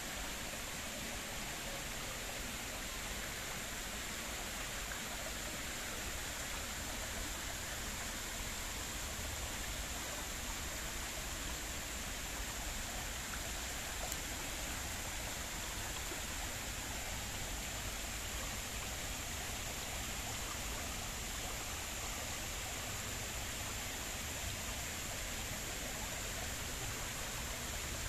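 Flowing stream water, a steady even rushing.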